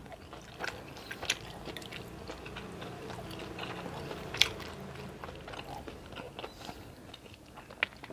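A person chewing a mouthful of ketupat sayur, soft rice cake and stewed beef in a curry broth, with no crunch. A metal spoon scrapes and clicks in a glass bowl, with one sharper clink about four and a half seconds in.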